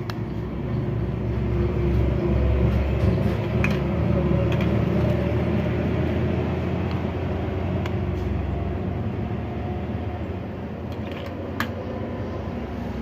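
A steady low background rumble, with a few light clicks scattered through, the clicks of a feature phone's keypad buttons being pressed to test them.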